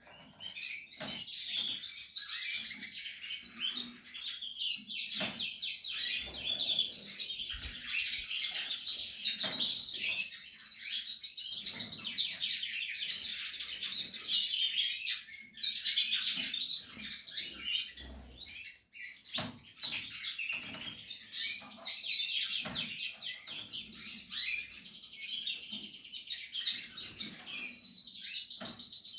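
Portuguese Harlequin canary singing continuously, with varied chirps and fast rolling trills. Scattered sharp clicks are mixed in.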